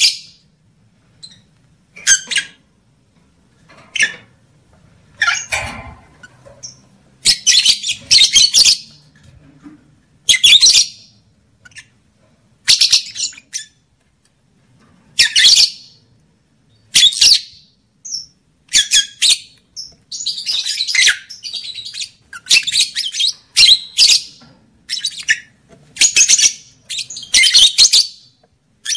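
Lovebirds calling: shrill, scratchy chattering bursts of about half a second to a second each, repeated every second or two and coming thicker and faster in the second half.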